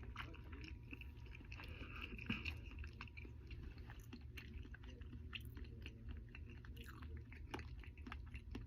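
A person chewing French fries, with many small, irregular mouth clicks.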